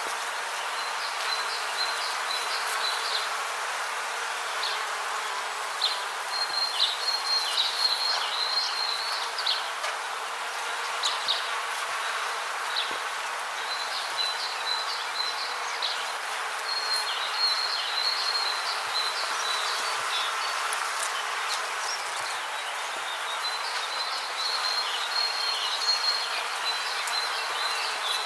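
Rainforest ambience: a steady hiss with repeated bouts of high, rapid chirping calls, each lasting one to three seconds.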